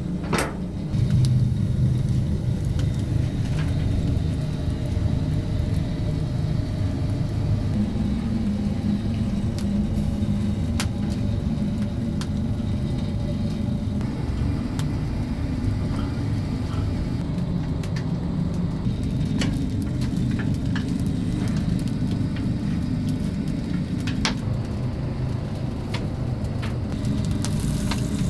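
Wood-fired rotisserie chicken oven at work: a steady low rumble with scattered sharp crackles from the burning wood.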